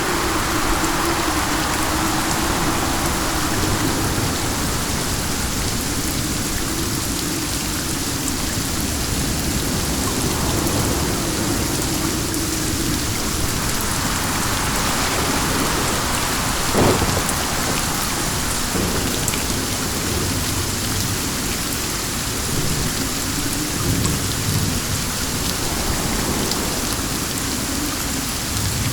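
Steady rain with wind, the rush swelling and easing slowly. There is one short, sharp crack a little past halfway.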